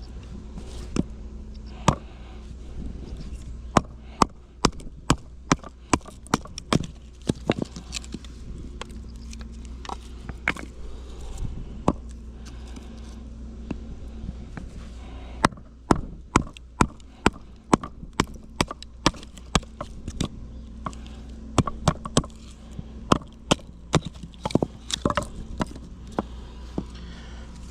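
Firewood being split: sharp wooden knocks, about one or two a second, in two long runs with a pause of a few seconds in the middle.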